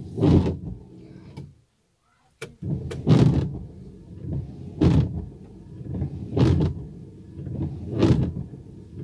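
Ford Fiesta windscreen wipers switched on, a short burst, a brief pause, then the wiper motor running with a loud juddering sweep of the blades across the glass about every second and a half. The shaking blades are a sign of a wiper arm that has lost its spring pressure against the glass, as the owner finds.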